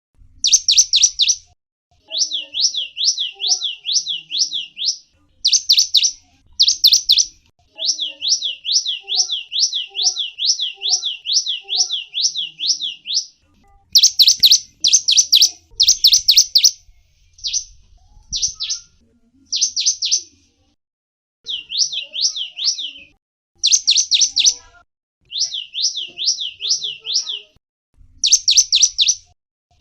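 Gelatik wingko (zebra finch) chirping in quick bouts of rapid, repeated high notes, each bout lasting about one to four seconds with short pauses between, and a few sharper, louder notes near the middle.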